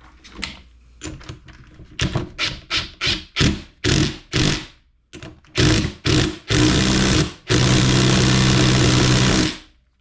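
Cordless power wrench run in a series of short trigger bursts, about three a second, then two longer runs and one steady run of about three seconds. It is tightening a nut toward about 40 foot-pounds.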